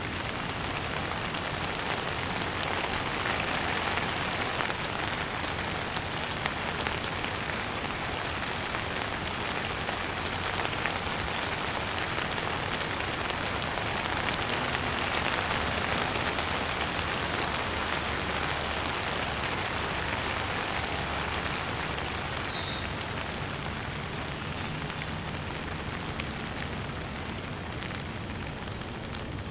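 Steady rain falling, an even hiss of drops on surfaces, with one brief, faint bird chirp about three-quarters of the way through.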